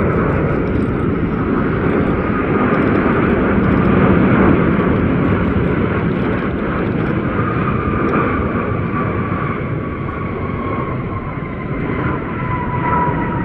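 Jet airliner on landing approach passing close by: a steady rush of engine noise with a high whine that slowly falls in pitch, loudest about four seconds in and easing off after.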